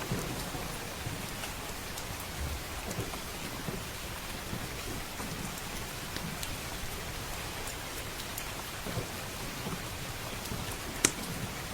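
Steady heavy rain hissing, with a low rumble of thunder near the start. Scattered small clicks run through it, and one sharp pop near the end is the loudest sound.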